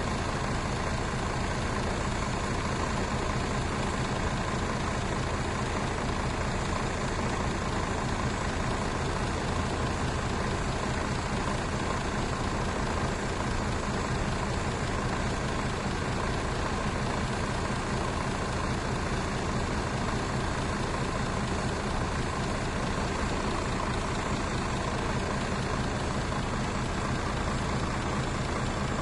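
Mercedes-Benz bus engine idling at a steady, even speed, with a constant low hum and no revving.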